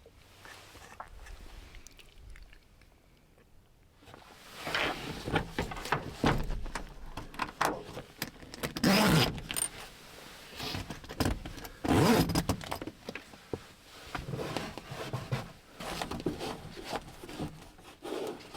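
Gear being handled: an irregular run of rustles, clinks and scrapes that starts about four seconds in after a quiet stretch.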